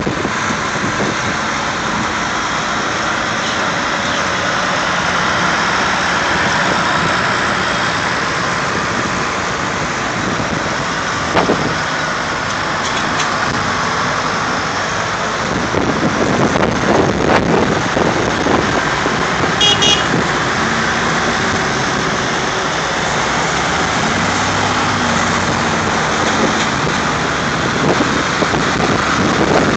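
Vintage tractors driving past one after another, their engines running and changing pitch as they pull away, with a brief high-pitched tone about two-thirds of the way through.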